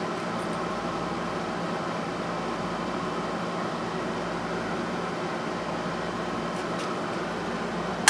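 Steady mechanical hum with a constant low drone and hiss, like a running fan. Near the end comes one sharp metallic clink.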